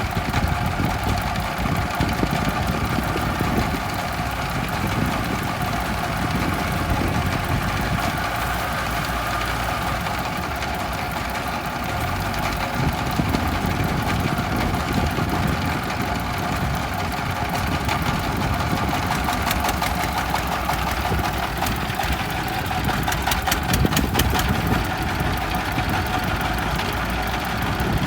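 Kubota M5018 tractor's diesel engine running steadily while the tractor plows soil.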